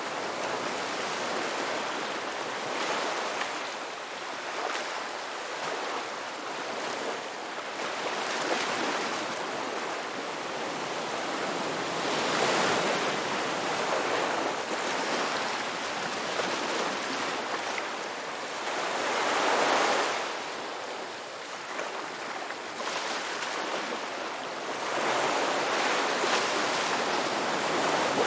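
Ocean waves breaking and washing on a beach, a steady rush of surf that swells and ebbs, with louder breakers about 12 and 20 seconds in and again near the end.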